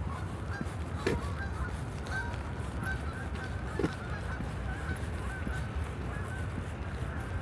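Birds calling in many short, repeated calls over a steady low city rumble, with two sharp knocks, one about a second in and one near four seconds.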